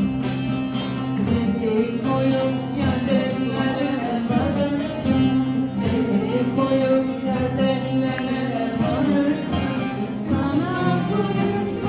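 A slow Turkish folk lament (ağıt): a voice singing over a plucked string accompaniment.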